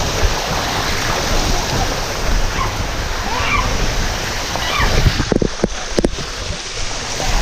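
Water rushing over the waterfall's cascades in a steady, loud wash, with a couple of short knocks about five to six seconds in.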